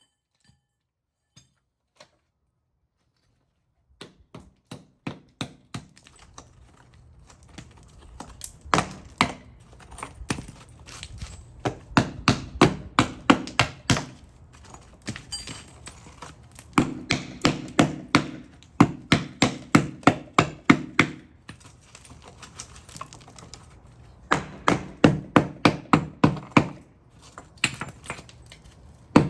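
Repeated sharp knocks on brick as the brick is broken out of a 6-inch vent hole, coming in bursts of a few strikes a second after about four seconds of near silence.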